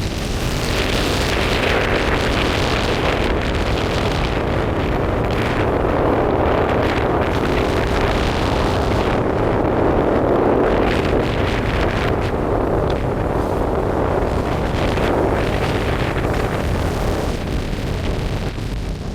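Storm-force wind buffeting the microphone in a loud, continuous rumble, swelling to its strongest in the middle and easing a little near the end.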